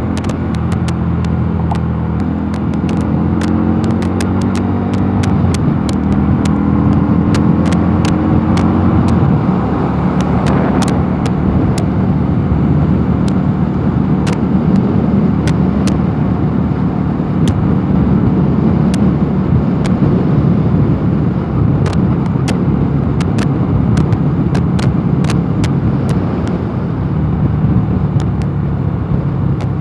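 Mondial Nevada 250 motorcycle engine running steadily at cruising speed, with wind rushing over the microphone. The engine hum is clear for the first few seconds, then is mostly covered by the wind noise, and sharp ticks come and go throughout.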